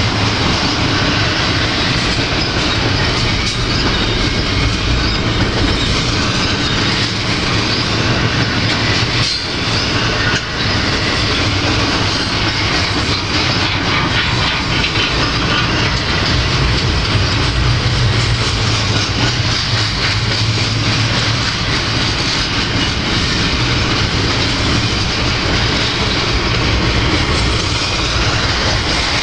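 Double-stack intermodal freight train rolling past, its container cars making steady wheel-on-rail noise.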